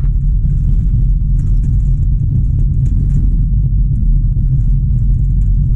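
Steady road and engine rumble heard inside the cabin of a 2007 Honda Civic sedan driving on a rutted, snowy road, with a few faint knocks from bumps.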